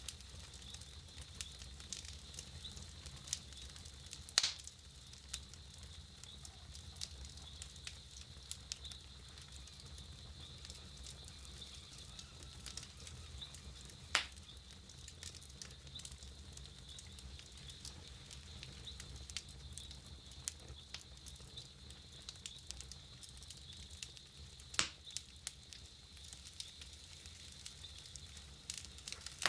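Wood campfire crackling with frequent small ticks and three louder snaps spread through, over a low steady rumble.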